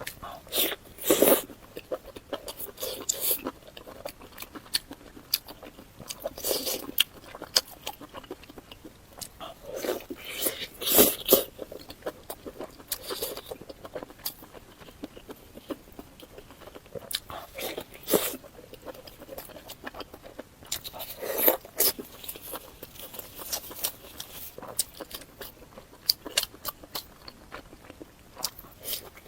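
Mouth sounds of a person eating: chewing and biting with sharp wet clicks and smacks, and a louder bite or slurp every few seconds at an uneven pace.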